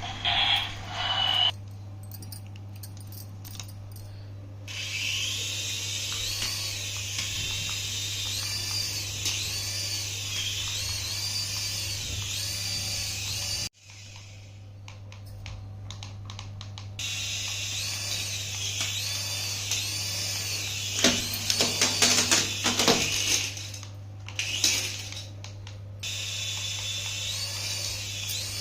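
Battery-powered toy's small motor and gears whirring, with a high tone that rises and falls about once a second. It cuts out briefly about halfway through, then starts again, with a spell of clicking near the end.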